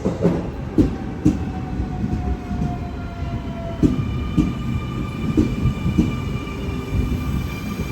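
Sydney Trains electric suburban train moving along the platform, its wheels giving irregular knocks over the rail joints. A thin high tone falls slightly in the first half, and steady high squealing tones come in about halfway.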